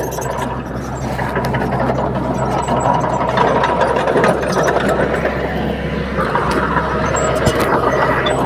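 Komatsu D31P crawler bulldozer's diesel engine running steadily under work, with scattered metallic clanks and clatter.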